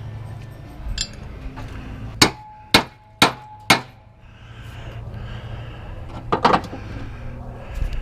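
Hammer striking the steel of a mower deck spindle: four hard blows about half a second apart, each with a short metallic ring, then a quick cluster of lighter knocks near the end.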